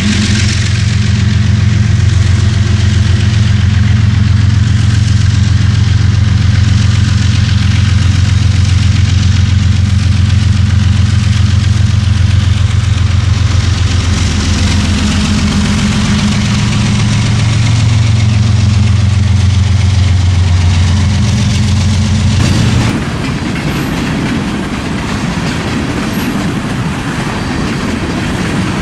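Diesel locomotive engines running loud and close as a train passes. About two-thirds of the way through, the engine note drops away suddenly and the steady rolling clatter of rail cars passing takes over.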